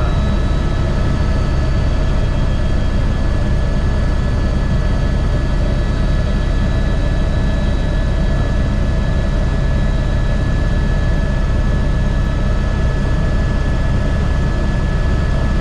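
Airbus H125 helicopter with its single turboshaft engine running steadily: a deep, even rotor and engine drone with several steady high-pitched turbine whine tones above it.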